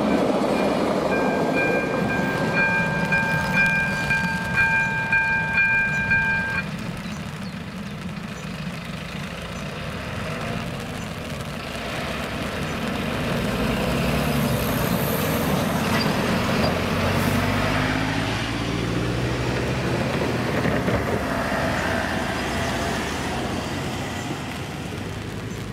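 A narrow-gauge train rumbles past and fades as its last car clears the crossing, while the crossing's ZV-02 electronic bell rings with a steady high tone until it cuts off about six seconds in. Then a truck and cars drive across the tracks, the truck's engine running as it pulls over the crossing.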